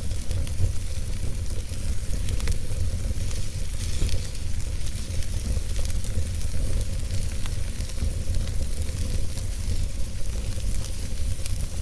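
Wood fire crackling in a fireplace: a steady low rumble and hiss of flames with scattered small pops and crackles.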